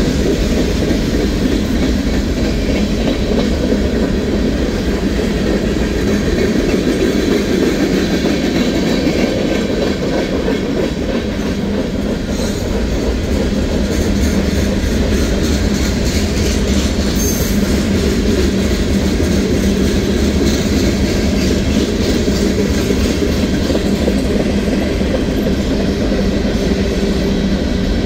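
Loaded freight cars of a manifest train rolling past: a loud, steady rumble with the clickety-clack of steel wheels over rail joints.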